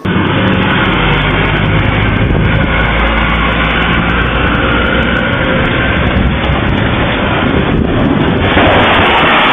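A loud, steady rushing noise with a deep rumble underneath, starting abruptly.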